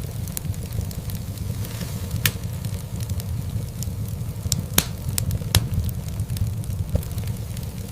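Wood fire burning in a fireplace: a steady low rumble of flames with scattered crackles and a few sharp pops, the loudest a little before five seconds in.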